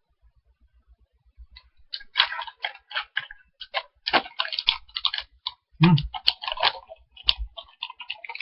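Someone chewing a crunchy dried Granny Smith apple snack: irregular crisp crunches, starting about a second and a half in.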